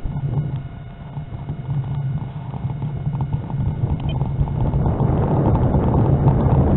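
Strong wind buffeting the microphone, a low rumble that grows louder from about halfway through. A faint steady whine from the Flightline 1.6M Corsair's electric motor flying overhead sits underneath.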